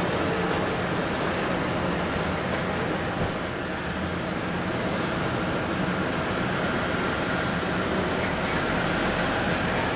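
Steady, unchanging rumble of a Boeing 787-8 Dreamliner jet airliner, with faint steady tones running through it.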